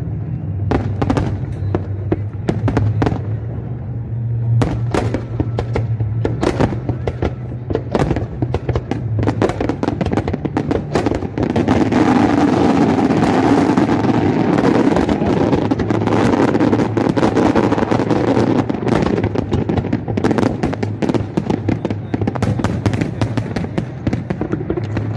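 Aerial fireworks bursting in a steady run of sharp bangs. About halfway through they come thick and fast as a dense barrage for several seconds, then thin out again. A steady low hum runs underneath.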